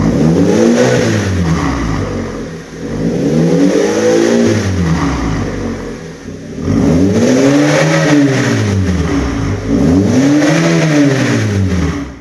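Hyundai YF Sonata's naturally aspirated four-cylinder engine revved four times through a custom exhaust with a chamber muffler and twin dual tips, the pitch rising and falling with each rev.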